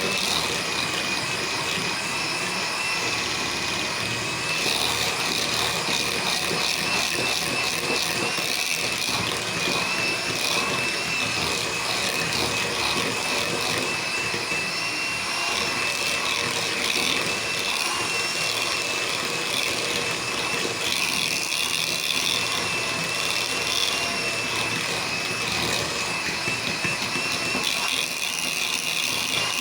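Electric mixer running steadily with a constant whine, beating pastry cream with a spoonful of butter to help it set.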